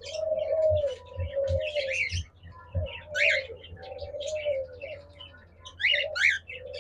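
Caged diamond doves cooing over and over in low, drawn-out coos, with high chirps over them and a few soft knocks in the first three seconds.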